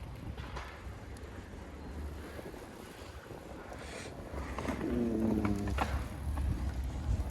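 Wind buffeting the microphone of a camera carried on a moving bicycle, a steady low rumble that swells over the second half. About five seconds in, a brief pitched call lasting about a second sounds over it.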